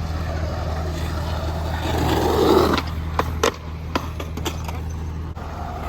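Skateboard wheels rolling on pavement, growing louder about two seconds in, then several sharp clacks of the board being popped and hitting the ground. A steady low hum runs underneath.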